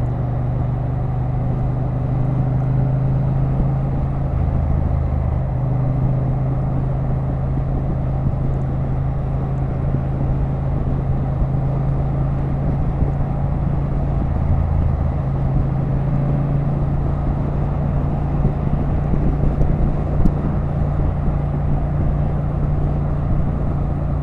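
Motorcycle engine running at a steady cruising speed under wind and road noise, picked up by the rider's on-board microphone.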